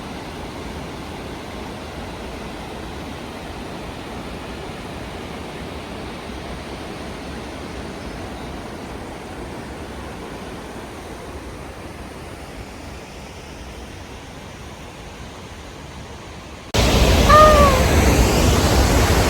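Steady rushing of a waterfall, heard from some way off; about 17 seconds in it cuts to the same rushing, much louder and close up.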